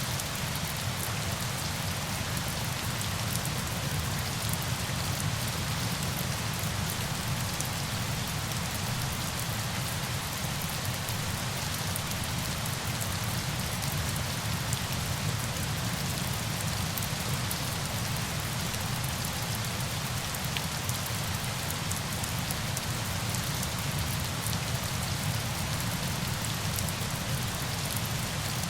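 Steady rain falling, an even hiss of many small drop ticks over a low rumble, unchanging throughout.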